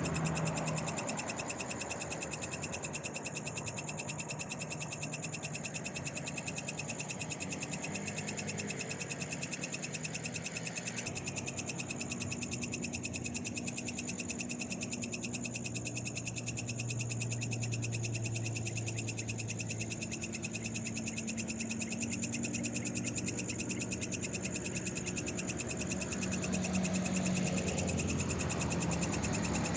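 Night chorus of frogs calling, a continuous rapidly pulsing sound with steady high-pitched ringing tones. A low hum swells and fades in the middle.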